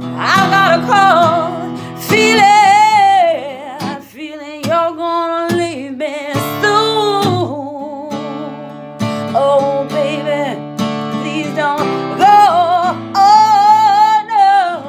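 Music: a woman singing long, wordless, wavering notes over strummed acoustic guitar, ending on a long held note near the end.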